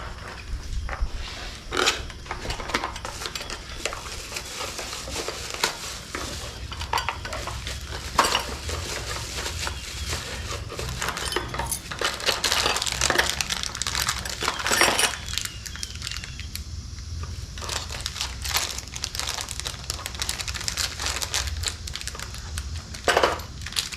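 Metal door-lock hardware being handled and fitted: irregular clinks, clicks and knocks of the handle set, latch parts and screws.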